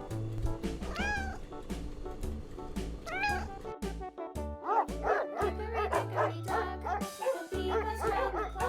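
Two drawn-out cat meows, one about a second in and one about three seconds in. They are followed from about halfway by a dog barking many times in quick succession, all over background music with a steady beat.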